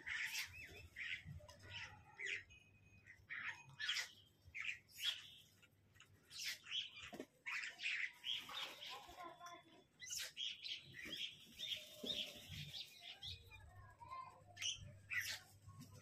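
Birds chirping: many short, sharp calls coming one after another in irregular clusters, with brief pauses between.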